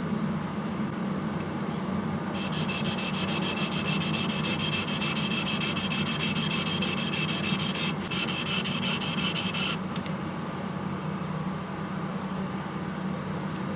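Single-bevel yanagiba blade ground flat on its bevel against a coarse 400-grit whetstone, a steady wet rubbing with a brighter, rhythmic rasp of quick strokes through the middle. This is the kiriha being reset: the micro bevel and convexity ground away.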